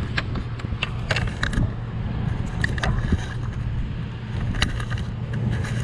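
Boat's outboard engine running steadily at idle on a newly replaced fuel line, with scattered clicks and knocks over it.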